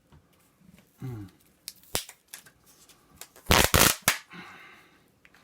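Handling noise from a microwave control panel being taken apart: scattered clicks, then a brief loud rattle of plastic and sheet-metal parts about three and a half seconds in. A short murmured voice sound comes about a second in.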